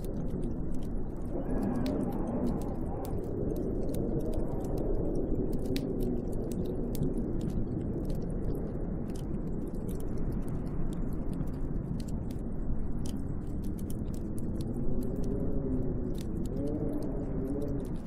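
Snowstorm wind blowing steadily, with a low howl that wavers up and down in pitch, swelling again near the end, and scattered faint ticks.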